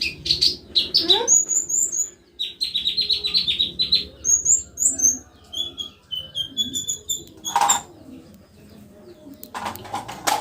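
Konin songbird singing in fast trills of sharp, high, repeated notes, about eight a second, broken by higher chirps. A single sharp click comes about three quarters of the way through, and a few more clicks near the end.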